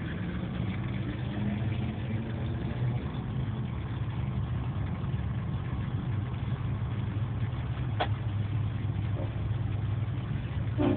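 Car engine idling with a steady low rumble. A sharp click comes about eight seconds in.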